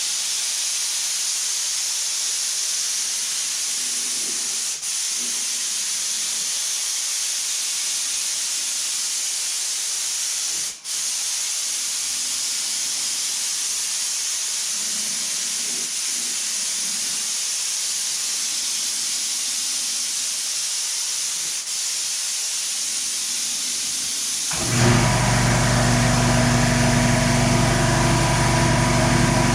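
Steady high-pitched hiss of compressed air from an air tool, broken by a few momentary gaps. About 25 seconds in it cuts abruptly to a louder engine idling steadily.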